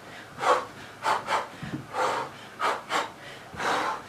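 Hard breathing: short, noisy exhales in quick succession, about seven in four seconds, from a person throwing uppercuts in a kickboxing drill.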